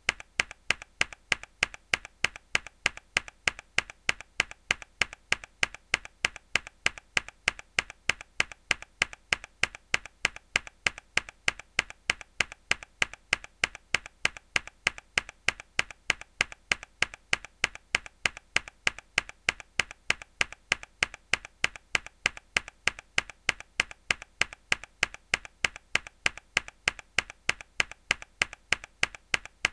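A single mechanical keyboard key pressed hard, repeated as an even train of sharp clicks at about three a second.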